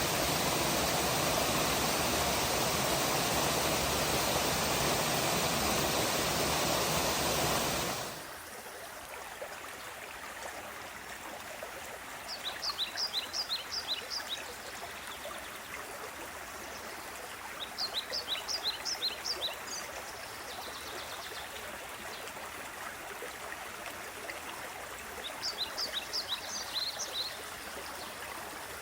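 Creek waterfall water, loud and close, cutting about eight seconds in to a quieter running stream. Over the stream a songbird sings three short phrases of quick high notes.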